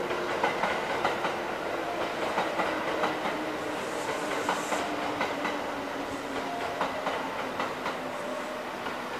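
A Kintetsu electric train rolling past the platform, its wheels clacking over the rail joints in quick pairs. A low motor hum slowly falls in pitch as it goes by.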